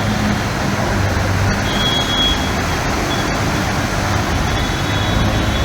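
Motor vehicle engine running steadily amid street traffic noise, with a brief high tone about two seconds in.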